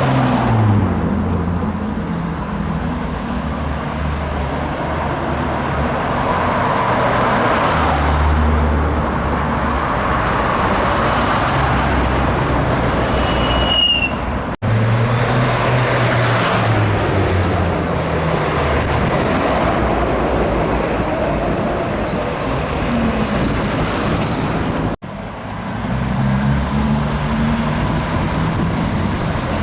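Engines of tractors and cars in a road run, running and shifting in pitch as vehicles pass. The sound breaks off abruptly twice.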